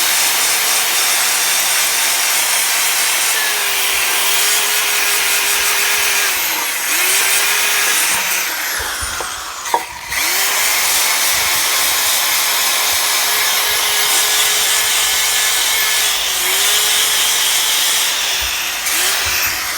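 Electric drill spinning a plastic brush against burnt-on residue in a stainless steel pot: a steady motor whine over a loud scrubbing hiss. The motor's pitch dips briefly a few times, and it stops for a moment about ten seconds in before starting again.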